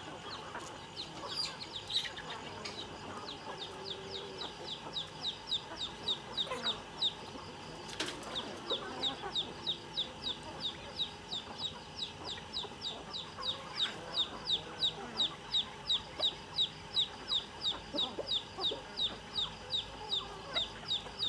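Chickens clucking while they feed. Through most of it a high chirp repeats steadily about twice a second.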